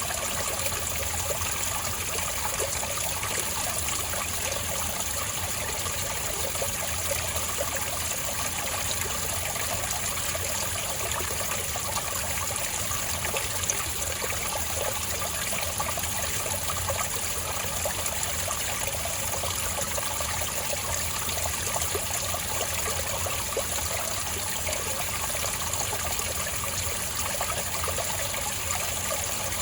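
Spring water trickling and flowing in a small stream, a steady bubbling patter.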